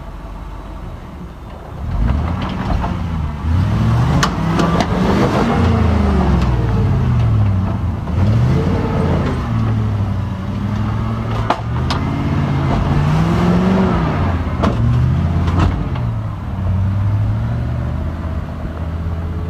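Off-road vehicle engine revving up and falling back again and again, with several sharp knocks scattered through it.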